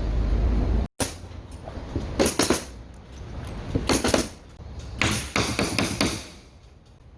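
Clusters of knocks and clatters from ceiling carpentry work, in three bursts; a low rumble at the start is cut off abruptly about a second in.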